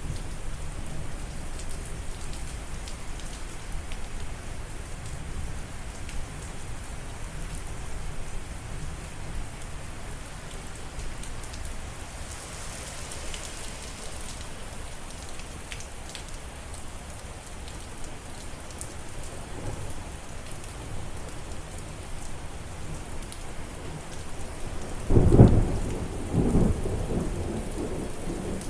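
Steady rain falling, with thunder rumbling low in the background. Near the end, a loud thunderclap breaks out and rolls on in a few further rumbles.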